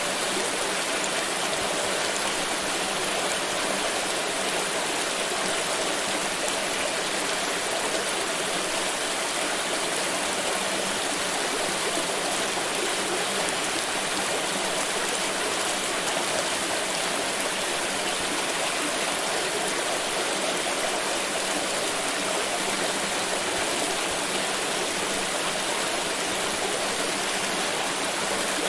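Pouring water making a steady, unbroken rushing splash.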